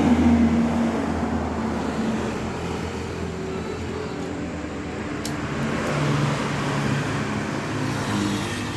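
Motorcycle engine running through an original Norifumi aftermarket exhaust, its note shifting slightly up and down and getting a little louder about six seconds in. A couple of brief clicks sound about five seconds in.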